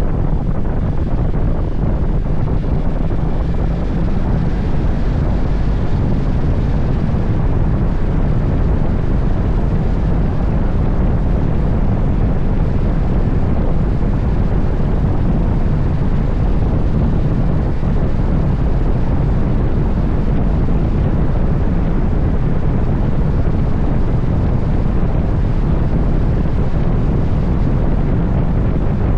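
Steady loud wind buffeting on the microphone with low road and engine rumble, as from a camera riding on a moving motorcycle.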